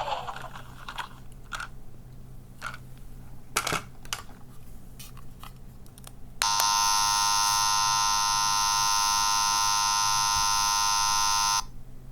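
A few light plastic clicks, then about six seconds in a small electronic sound-effect capsule toy sounds a loud, steady buzzer tone for about five seconds, which cuts off suddenly.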